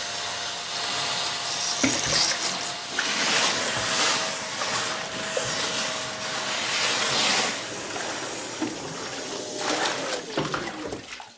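Kärcher multi-purpose wet-and-dry vacuum sucking water out of a sink: a steady motor whine under a rushing noise of water and air, which dies away about ten seconds in.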